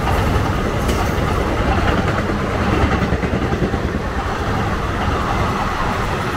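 Passenger train coaches running past at speed on the near track: a loud, steady rumble of wheels on rail.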